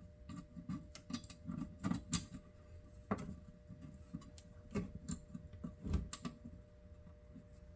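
Small screws being driven into the chronometer's case with a screwdriver: irregular clicks and taps with handling rustle.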